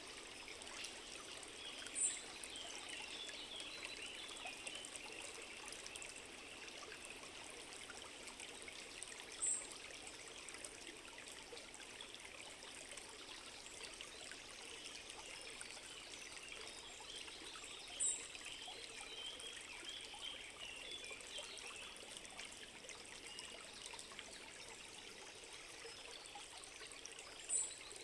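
Small forest stream trickling steadily, with a short, very high chirp repeating about every nine seconds, four times in all.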